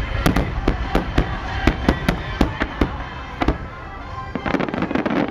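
Star mine fireworks barrage: aerial shells bursting in quick succession, about four sharp bangs a second, easing off briefly and then giving way to a dense run of small crackling pops near the end.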